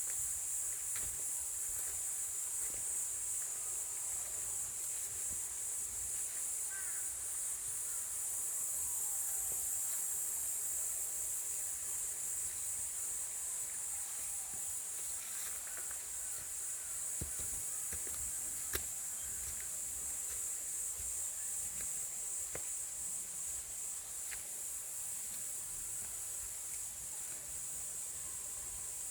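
A steady, high-pitched chorus of insects shrilling in the forest, unbroken throughout, with a few faint ticks and a low rumble underneath.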